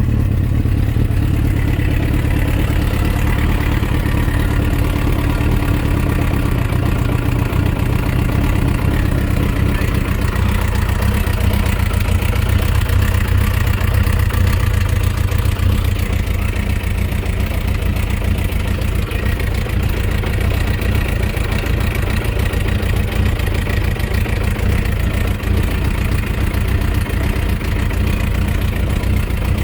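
Suzuki RF900's inline-four engine idling steadily with a knock in its running, the engine-knocking fault the owner is showing.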